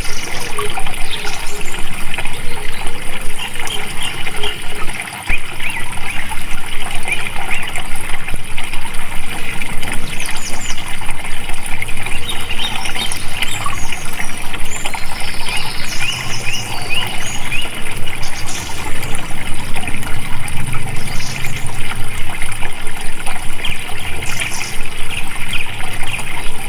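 Water flowing and trickling steadily, as in a stream, with brief high bird calls now and then.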